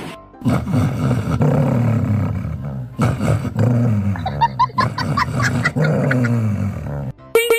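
An animal's long, low calls: three drawn-out ones of about two seconds each, each sagging a little in pitch, with a few short high chirps between the second and third.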